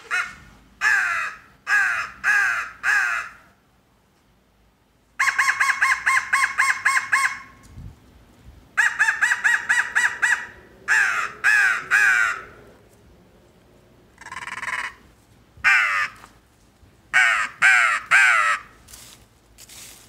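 All-wood M.L. Walker crow call with cocobolo wood nibs, mouth-blown in a sequence of loud caws, each falling in pitch. Groups of three or four separate caws alternate with two fast runs of many short caws.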